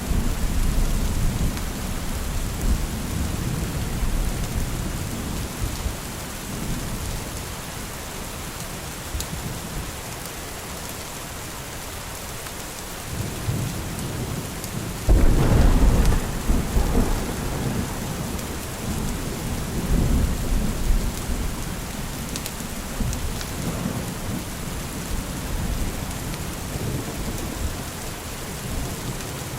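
Steady rain with rolling thunder. A low rumble fades out early, then about halfway through a sudden loud thunderclap rolls on for several seconds, with smaller rumbles after it.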